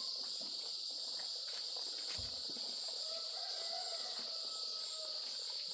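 Steady high-pitched chorus of insects, crickets or cicadas, running without a break, with a soft low knock about two seconds in.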